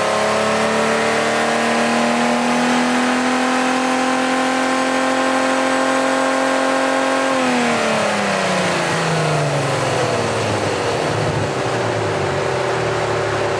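A 24-valve VR6 engine in a Mk3 Golf held at raised revs that creep slowly upward for about seven seconds. The throttle is then released, and the revs fall back over about two seconds to a steady idle.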